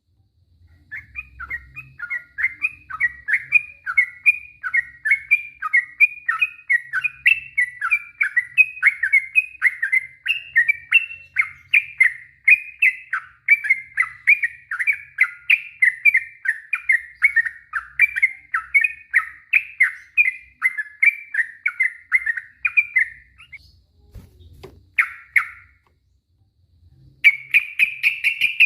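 Yellow-vented bulbul singing a long unbroken run of quick, bubbling notes, the 'ropel panjang' song. The run lasts about twenty seconds and breaks off, followed by a short phrase and, near the end, a faster chattering run.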